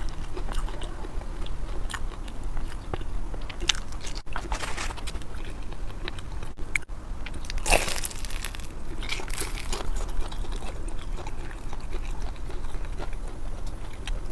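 Close-miked eating: chewing and biting food, with irregular crisp crunches, the loudest about four seconds in and around eight seconds in.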